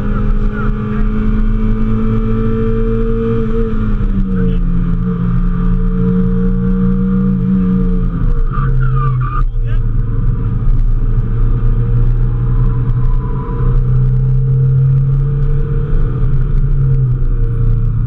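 Mazda Miata's four-cylinder engine heard from inside the cabin under hard running, its revs falling in two steps about four and eight seconds in as the car slows for a turn, then holding lower with a slight rise and fall near the end.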